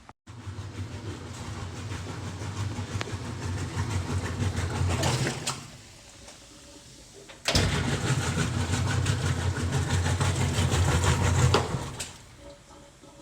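Power drill driving screws into a washing machine's back panel: two runs of the motor of about five and four seconds with a short pause between, the first growing louder as the screw tightens.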